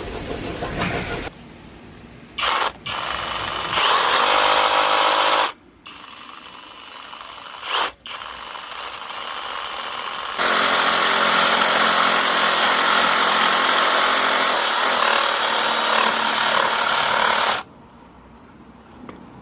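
Power tool motor running in bursts with a whine: a brief blip, a loud run of about a second and a half, then a steady run of about seven seconds that cuts off abruptly.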